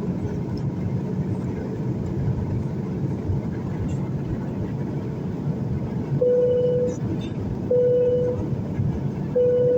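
Steady roar of an airliner's cabin noise on descent. From about six seconds in, a pitched electronic beep repeats about every second and a half, three times.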